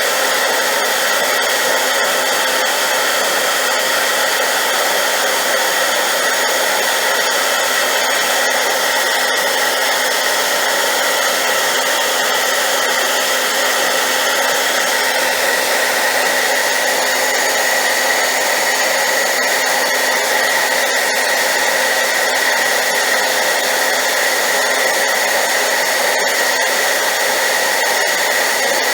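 Hair dryer running steadily on high power: a loud, unchanging rushing hiss with a faint steady whine from its motor.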